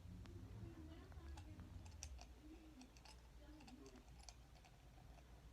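Faint scattered clicks and ticks of a CO2 BB pistol being handled, its parts being opened and closed.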